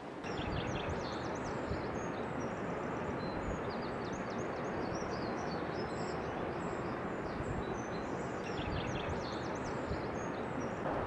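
Many small birds chirping and twittering over a steady background noise outdoors.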